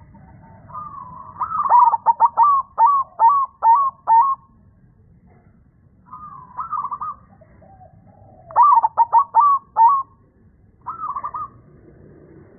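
A deep-voiced zebra dove (perkutut) singing its cooing song: a drawn-out opening note runs into a quick string of clipped coos. This comes twice, with shorter coo phrases in between.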